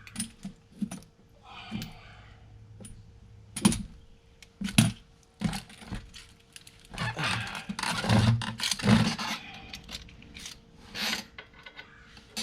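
Metal hand tools and parts clinking and knocking during brake caliper work: a string of separate clicks and clatters, with a denser stretch of rattling about seven to nine seconds in.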